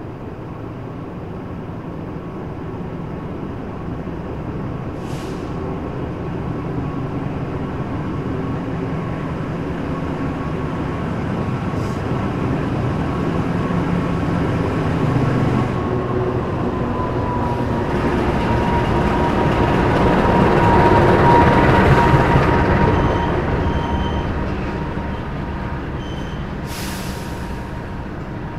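Locomotive-hauled passenger train coming along the platform: diesel engine drone and rolling wheel noise build up steadily, loudest as the locomotive passes about three-quarters of the way through, with a steady whine that drops slightly in pitch as it goes by, then the coaches rolling past more quietly. A few short hisses are heard.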